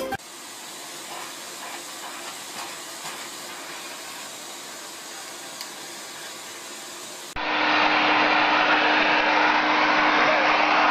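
A faint steady hiss, then about seven seconds in a much louder vacuum cleaner motor running steadily with a constant hum.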